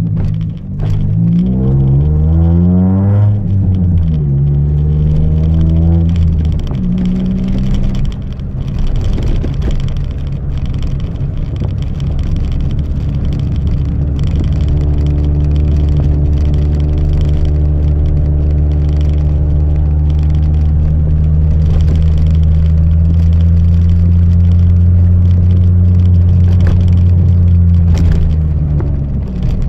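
Chevrolet Celta 1.0 four-cylinder engine, running on ethanol through a 4-into-1 header and a two-inch exhaust with no mufflers. It is revved up and back down twice in quick succession, then held at a steady engine speed for a long stretch, and the revs drop just before the end.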